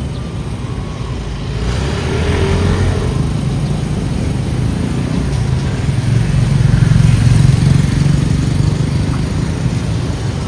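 Motor vehicle engine running with a low rumble, growing louder about six seconds in and then easing a little.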